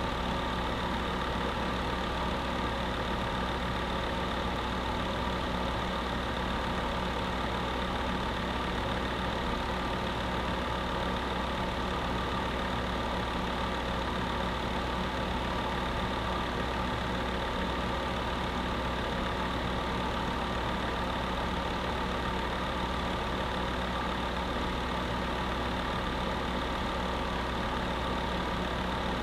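Electric space heater running steadily: a constant fan whir with a low electrical hum under it.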